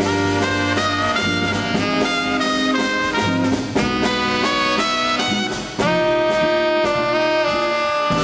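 A live swing band's horn section (saxophone, trumpet and trombone) with rhythm section plays an instrumental introduction of held, stacked horn chords. The band dips briefly about six seconds in, then comes back in on a loud sustained chord.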